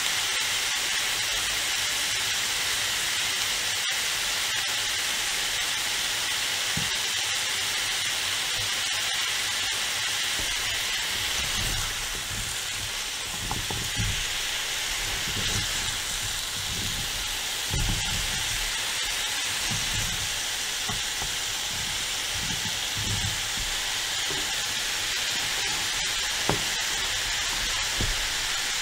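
Diced zucchini sizzling in hot oil in a frying pan, a steady hiss. From about halfway in, a slotted spatula stirs and turns the pieces, adding soft knocks and scrapes against the pan.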